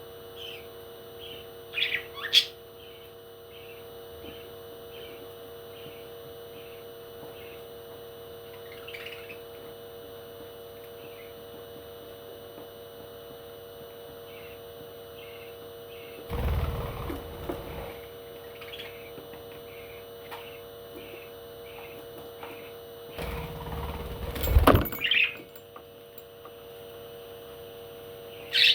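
Parrot chirping, short high chirps repeating about once or twice a second, with a few louder sharp calls. Twice, in the second half, a loud stretch of low rumbling noise covers it, and a steady electrical hum runs underneath.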